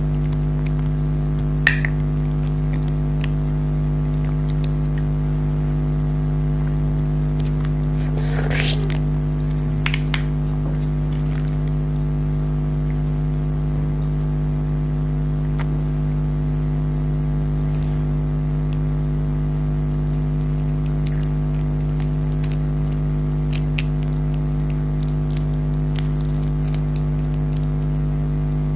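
Soft eating sounds of jelly candies being bitten and chewed, with scattered small clicks and a crinkle about eight and a half seconds in, over a steady low hum.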